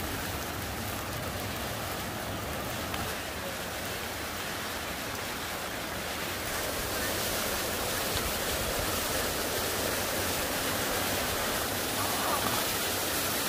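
Waterfall rushing, a steady wash of falling water that grows slightly louder about halfway through.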